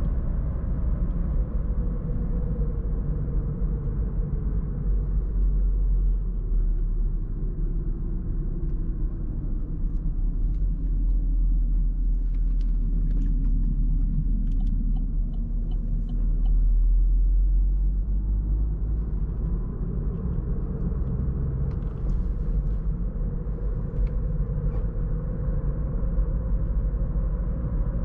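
Interior sound of a 2017 Opel Astra K's 1.4-litre turbo petrol four-cylinder over steady road rumble. The engine note falls as the car slows for about the first half, stays low through the middle, then rises again as the car accelerates away. A few faint clicks come in the middle.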